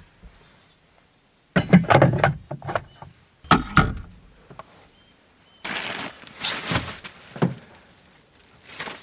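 Belongings being handled and moved about: clusters of knocks and thunks about two and four seconds in, then a longer stretch of rustling and shuffling noise around six to seven seconds, with a last knock near the end.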